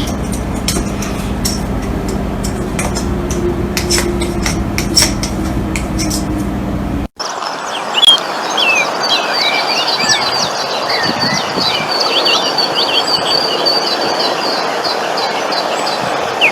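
A steady low hum with scattered clicks, then, after a sudden cut about seven seconds in, many small birds chirping rapidly over a steady hiss.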